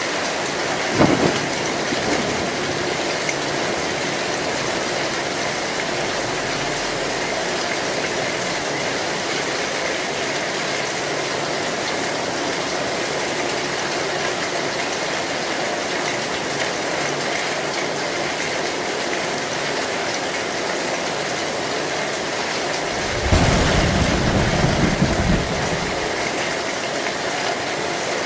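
Heavy rain pounding steadily on an old tin (zinc) roof. A sharp thunder crack comes about a second in, and a loud low roll of thunder near the end lasts about two seconds.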